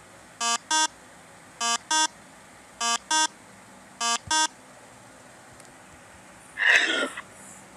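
Four pairs of short, high, electronic-sounding beeps, the pairs about a second apart, followed near the end by one brief, louder, rough burst of sound.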